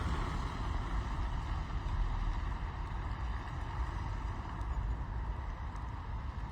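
Rain heard from inside a car's cabin: an even hiss over a steady low rumble.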